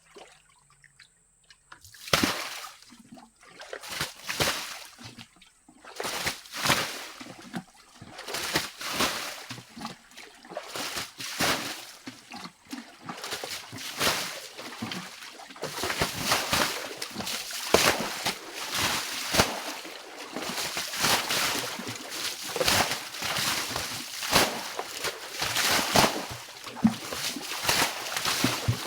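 Water splashing and sloshing in repeated scoops and throws as water is bailed out to drain it. The splashes start about two seconds in and come faster, almost without a break, in the second half.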